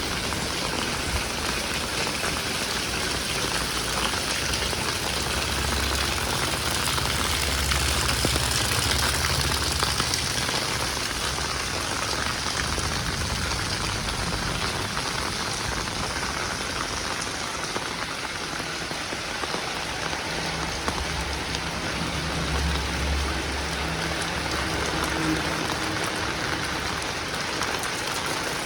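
Steady heavy rain falling and pattering on surfaces, a dense even hiss. A low rumble comes and goes beneath it in the first third and again later.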